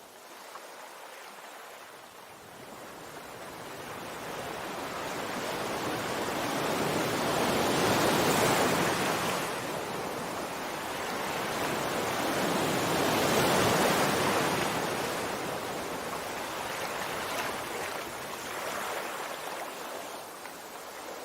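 Sea waves washing in, a steady hiss of water that swells twice, loudest about eight and thirteen seconds in, and ebbs between and after.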